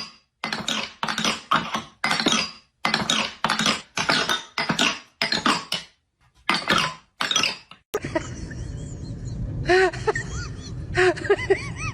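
A run of short, loud, noisy bursts with brief gaps between them. After a cut about eight seconds in, a dog whimpers and yips in short rising-and-falling whines over steady background noise.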